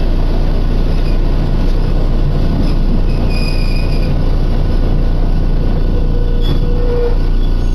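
Chikuho Electric Railway electric train running, heard from inside the car: a steady rumble of wheels on the rails, with a short high wheel squeal about three seconds in.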